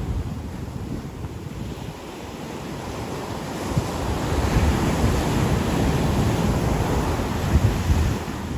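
Ocean waves breaking and washing onto a beach, easing off about two seconds in and then building again into a long, loud wash, with wind buffeting the microphone.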